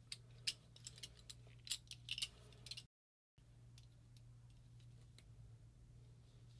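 A few faint, scattered clicks and light taps of small parts being handled on a workbench, then near silence with only a low steady hum after a brief cut about three seconds in.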